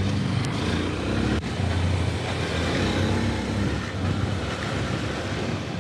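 Small 150cc motorcycle engine running steadily while riding, under wind and road noise, with a single brief click about a second and a half in.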